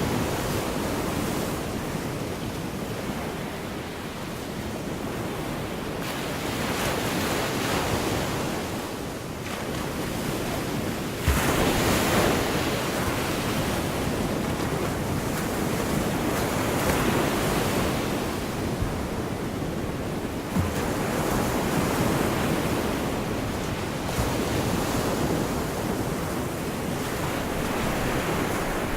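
Gulf of Mexico surf washing onto the beach, a steady rush of waves that swells and ebbs, with wind buffeting the microphone. A wave breaks more loudly and suddenly about eleven seconds in.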